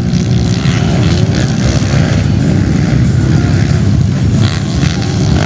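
Motocross motorcycle engine running loud and steady, with a dense, choppy low rumble.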